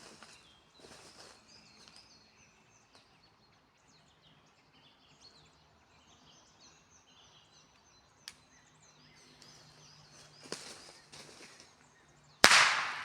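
Birds chirping faintly in quiet woods, then near the end a single loud firecracker bang that echoes and dies away over about a second.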